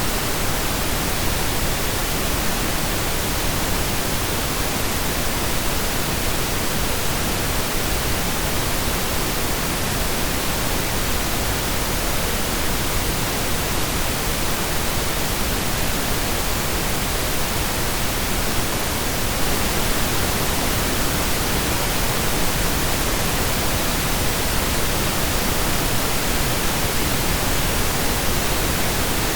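Steady synthesized pink noise: an even, unchanging hiss spread evenly across low and high pitches, with no breaks or changes.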